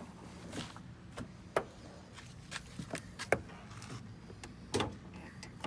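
Scattered light clicks and knocks, roughly one a second, the sharpest about a second and a half in and just past three seconds.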